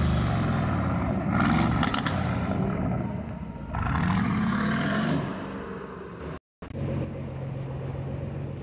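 Aston Martin Vantage engine and exhaust revving loudly in two bursts, pitch rising and falling, the second burst about four seconds in. After a sudden cut, a second car's engine gives a steady low drone.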